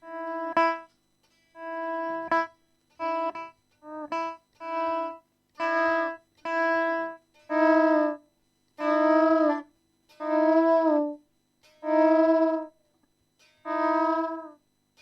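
Overdriven electric guitar playing one repeated note about a dozen times, each note swelling in and cut off by a volume pedal with silence between, several bending in pitch at the tail, a sound that is cat-like.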